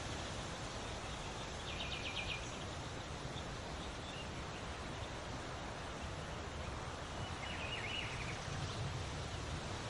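Steady rustle of wind in tree leaves, with birds calling over it: a short, rapid high trill about two seconds in and another one near the end.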